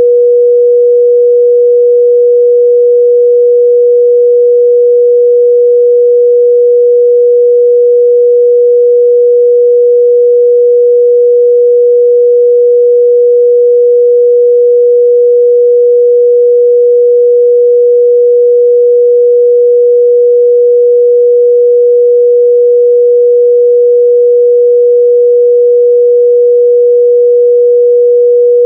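A pure 484 Hz sine-wave test tone, held steady and loud at one unchanging pitch.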